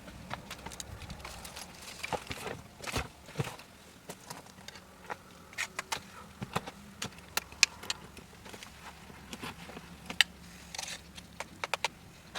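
Wood fire crackling: irregular sharp snaps and pops, the sharpest about ten seconds in.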